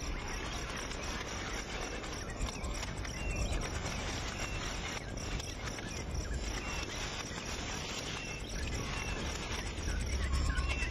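Outdoor natural ambience: a steady insect-like hiss with faint short bird chirps about once a second, over a low rumble that grows louder near the end.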